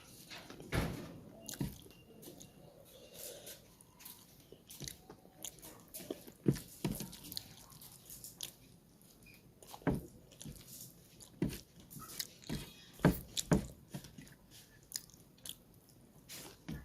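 Close-miked eating sounds: chewing and biting into chicken curry and rice, with irregular sharp wet mouth smacks and clicks.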